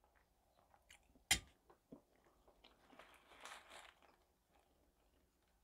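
Faint chewing of a mouthful of cabbage soup close to a lapel microphone, with one sharp click a little over a second in and a soft rustle about three seconds in.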